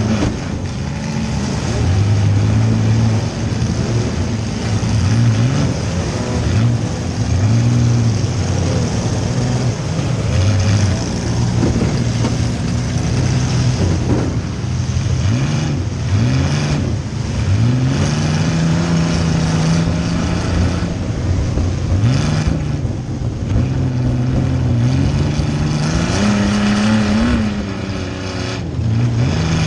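Compact car's engine revving up and down over and over, its pitch climbing and dropping every few seconds, heard from inside the car.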